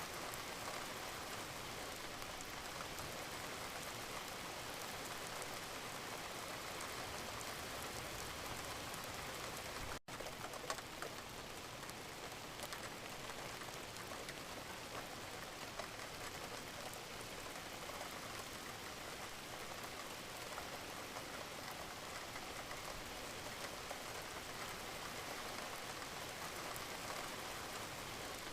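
Steady gentle rain: an even hiss of falling rain with scattered drops pattering on a surface. The sound drops out for a split second about ten seconds in, then carries on.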